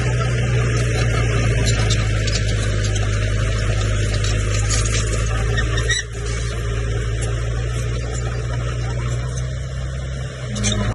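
Komatsu bulldozer's diesel engine running steadily, with frequent metallic clicks and rattles over it. The sound dips briefly about six seconds in.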